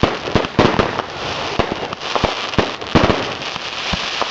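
Fireworks going off: about ten sharp bangs at irregular intervals over a steady crackling hiss.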